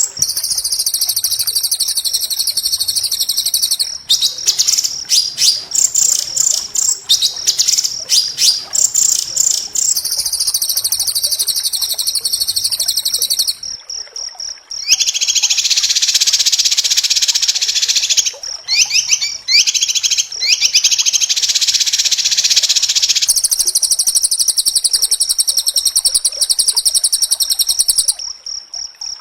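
White-rumped shama (murai batu) singing a fast, dense song of rapid high trills and chattering notes. There are brief pauses about 4 s in, around 14 s, and near the end. A lower, fuller trilling passage runs through the middle.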